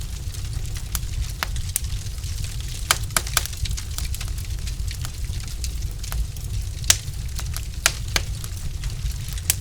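Wood fire in a fireplace, logs burning with irregular sharp crackles and pops over a steady low rumble of flames.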